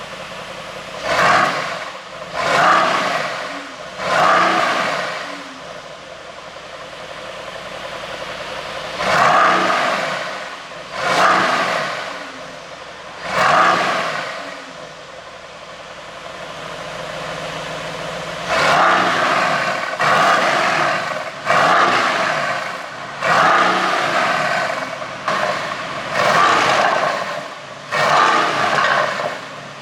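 Mercedes-AMG GT C's twin-turbo V8 blipped repeatedly from idle: three short revs, a pause at idle, three more, another idle, then a quicker run of about eight blips, with exhaust pops and crackle from its ECU pop tune as each rev falls away.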